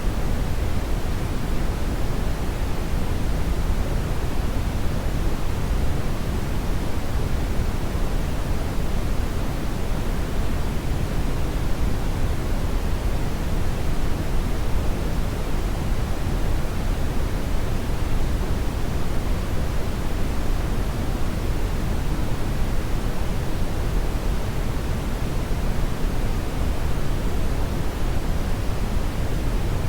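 Hair dryer blowing steadily: an even rushing hiss, strongest in the low end, with no changes in pitch or level.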